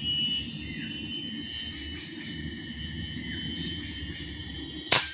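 Steady high-pitched insect chorus over a low rustle of wind and leaves, then a single sharp crack near the end: an air rifle shot.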